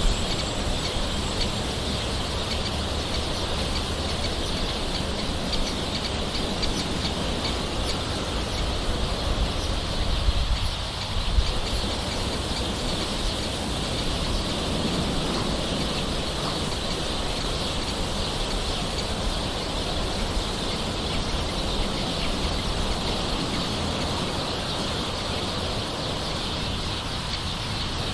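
Nature ambience: gentle rain falling steadily with birds calling, over a steady high-pitched insect chorus.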